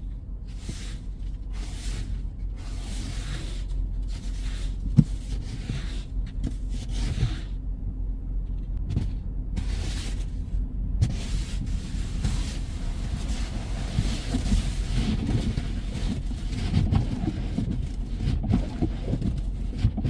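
Low steady rumble of a car running, with rushes of noise that come and go.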